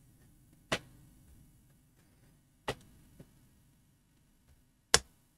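A few short, sharp clicks and taps as a small clamp is fitted onto the laptop's screen bezel to hold the glued hinge. The loudest click comes near the end.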